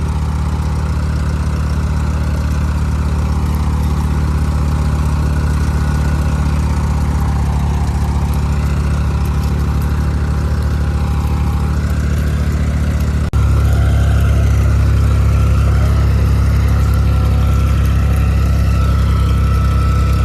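Tractor diesel engine running steadily under load while towing a loaded trolley. About thirteen seconds in, the sound switches abruptly to a louder, deeper engine note.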